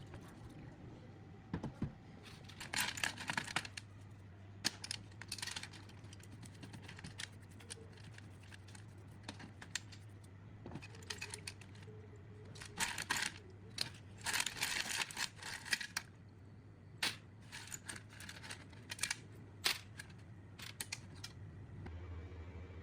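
Hand work on parts during a workshop restoration: irregular sharp clicks, clinks and short scraping bursts in uneven clusters, over a steady low hum.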